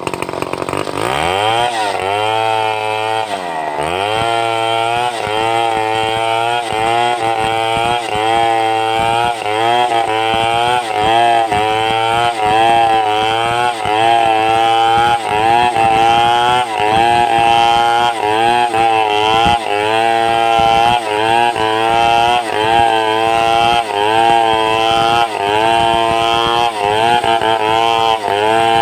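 Two-stroke chainsaw running at high revs while ripping boards from timber, its engine pitch dipping and recovering about once a second as the chain bites into the wood under load. About two seconds in, the revs sag deeply and climb back.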